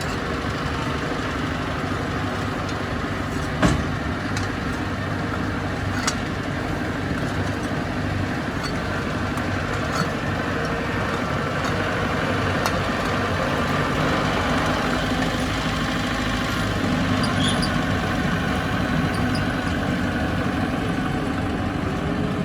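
Diesel engine of heavy earthmoving machinery running steadily, with a few sharp knocks, the loudest about three and a half seconds in.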